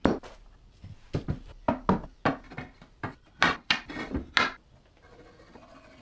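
Pieces of wood knocking against each other or against a hard surface: about a dozen sharp knocks in irregular runs, as when cutting-board strips are handled and set down.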